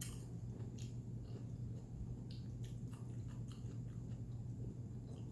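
A person chewing food close to the microphone, with faint scattered wet mouth clicks, over a steady low hum.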